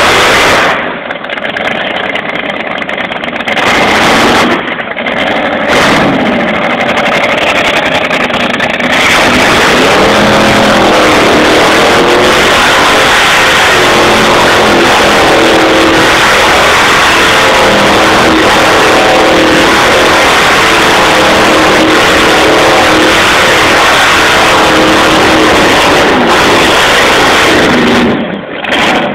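Rat rod engine revving hard, the pitch rising and falling, as the car spins donuts with its rear tyres smoking. The sound is loud throughout, and it becomes steadier and fuller about a third of the way in.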